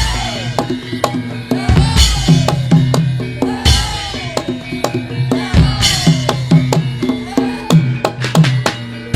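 Javanese gamelan music for a Lengger dance, driven by kendang hand drums in a dense, fast rhythm. Heavy low drum strokes land about every two seconds, with ringing metallic tones over them.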